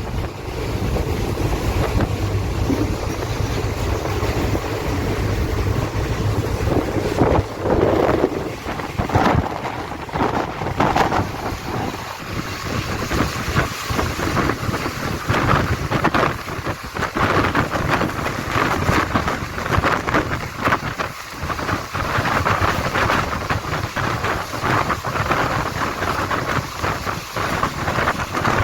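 Indian Railways train running on the track: a continuous rumble with irregular knocks and clatter from the wheels and rails, and wind buffeting the microphone.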